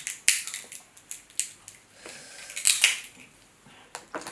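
Crab claw shells being cracked and broken apart by hand, a few sharp snaps and crackles at uneven intervals with wet shell rustling between.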